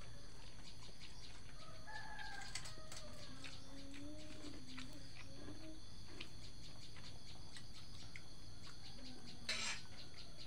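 A rooster crows once, a long drawn-out call beginning about two seconds in, over a steady drone of insects. A short sharp click comes near the end.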